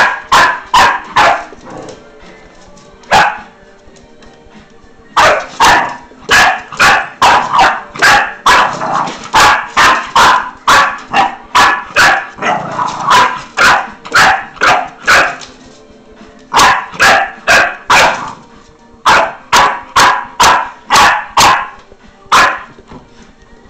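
Boxer puppy barking in repeated short, sharp barks, about two a second. The barks come in bouts with brief pauses between them.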